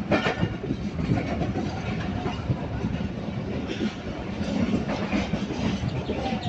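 Passenger train rolling along the platform as it pulls into the station, heard from the open carriage door: a steady running rumble with scattered, irregular knocks from the wheels.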